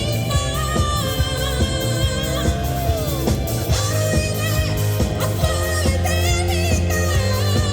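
Live rock band playing a song: a lead singer's voice with vibrato over electric bass, guitar and drums.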